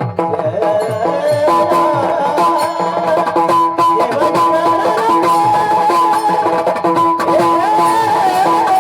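Marathi kirtan accompaniment music: sustained held notes, harmonium-like, over a steady, fast beat on hand drums.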